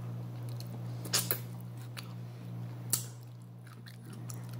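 Close-up mouth sounds of a person chewing food, with a few sharp clicks about a second in and near the three-second mark, over a steady low electrical hum.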